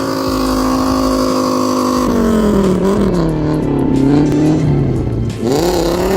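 Audi Quattro's five-cylinder engine running at steady high revs, then dropping and wavering as the revs fall off, before revving sharply up again near the end.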